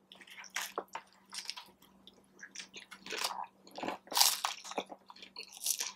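Close-miked chewing of a hard corn taco shell: irregular crunches and wet mouth sounds, with several louder crunches in the second half. The eater finds this Hint of Lime shell gives a little chew instead of a clean crunch, and takes it to be slightly stale.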